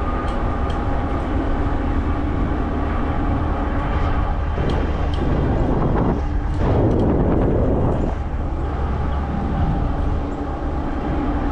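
Cyrusher Kommoda 20-inch fat-tire e-bike riding along: a steady rolling hum with noisy rushing over it, louder for a few seconds in the middle.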